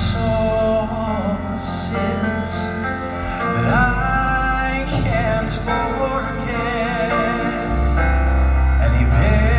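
Southern gospel quartet singing a slow song over band accompaniment, with held bass notes under the voices.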